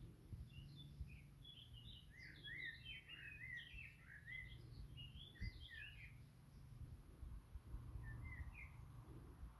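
Faint songbird twittering: a busy run of quick, short chirps for the first six seconds, then a couple more near the end, over a low rumble.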